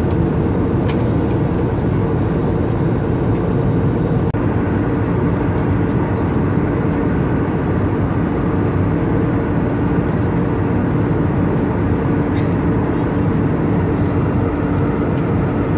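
Airbus A320neo cabin noise in cruise: a steady rush of engine and airflow with a constant low hum, and a few faint ticks.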